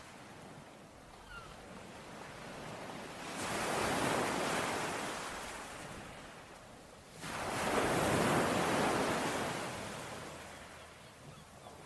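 Ocean waves breaking on a shore, twice: one wave builds and peaks about four seconds in and washes out, then a second breaks more sharply about seven seconds in and slowly fades.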